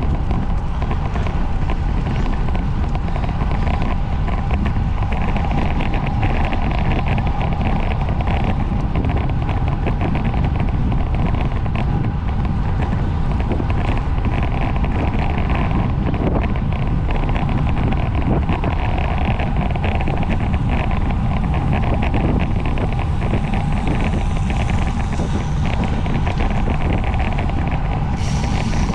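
Wind noise on the microphone of a camera riding on a racing bicycle at race speed: a loud, steady rush, heaviest in the low end, with a faint steady hum above it.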